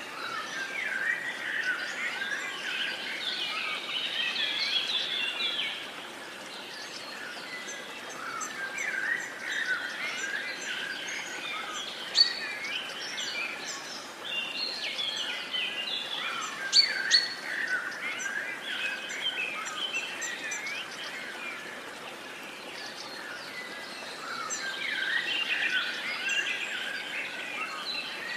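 Several songbirds singing and chirping together over a steady outdoor background hiss, the chorus swelling and easing every few seconds, with a few sharp high chirps standing out.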